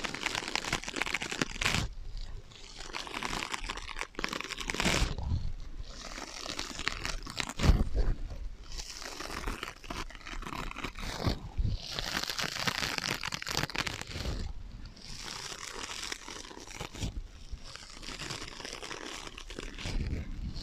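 Scratching on sponges in irregular bursts of dry, rasping noise with short pauses between strokes, played through an echo effect.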